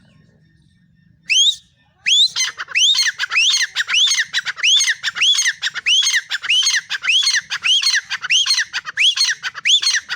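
Female francolin (teetar) calling: one short rising note, then a fast, even series of sharp rising calls, about two a second.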